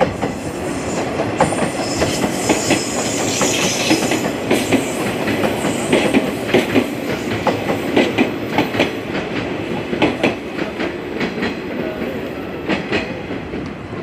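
Train passing close by, its wheels clattering over rail joints in a quick, uneven rhythm of clicks that fades near the end.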